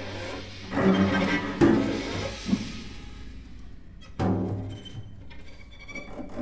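Mixed chamber ensemble playing contemporary concert music. There are sharp loud accents about a second in and again just after four seconds, with low held tones and quieter scattered sounds between them.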